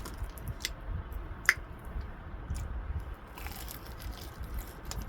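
A person chewing and biting into fried chicken close to the microphone, with scattered small clicks and one sharp click about a second and a half in.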